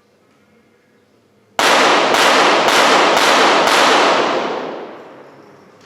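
.22 Short rapid-fire pistols firing a timed five-shot series about a second and a half in, the shots about half a second apart, each ringing on in a long echo that dies away over about two seconds.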